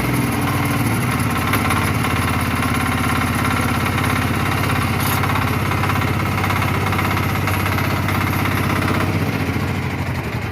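Power weeder's Kama engine running steadily. It settles to a slightly lower speed right at the start and eases off a little near the end.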